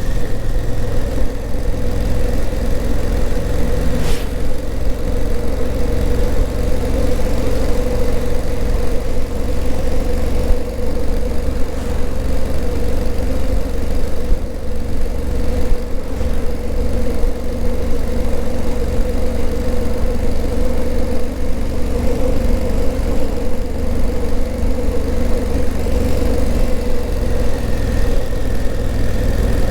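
Honda CRF1000L Africa Twin's 998 cc parallel-twin engine running at a steady engine speed with no revving. A brief click comes about four seconds in.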